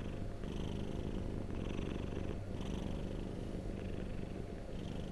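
Domestic cat purring steadily, a continuous low rumble with a softer hiss that swells and fades about once a second.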